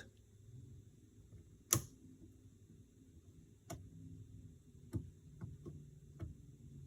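Sharp metallic clicks every second or so, the loudest about two seconds in, from snap ring pliers slipping and snapping against a snap ring while trying to seat it in a power steering cylinder.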